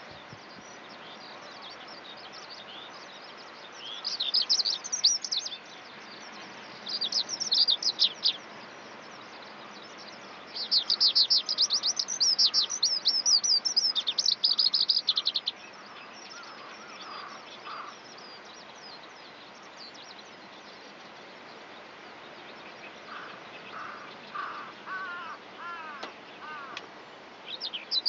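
Eurasian skylark singing: bursts of rapid, high twittering trills, the longest lasting about five seconds, over a steady background hiss. Quieter, lower warbling phrases come in the second half.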